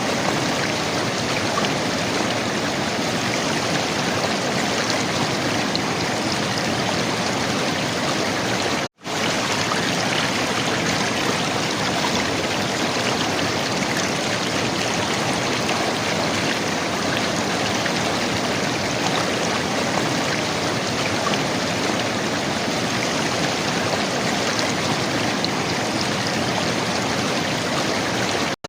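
River water flowing and gurgling in a steady, even rush. The sound cuts out for a split second about nine seconds in, then resumes unchanged.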